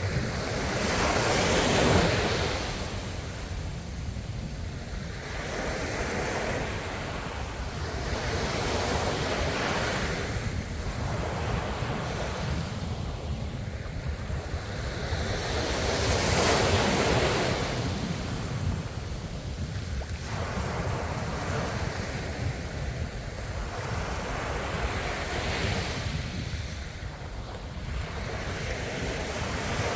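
Ocean waves breaking and washing on the shore, in repeated surges every few seconds over a steady low rumble, with some wind noise.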